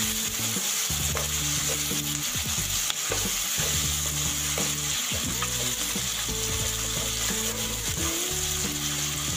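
Chopped onions and bell peppers sizzling in hot oil in a frying pan while being stirred with a spatula, which scrapes and taps against the pan now and then.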